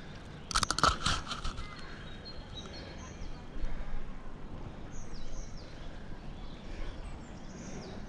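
A bird chirping repeatedly in short, high, falling notes. About half a second in there is a brief burst of sharp crackling and scraping, the loudest sound.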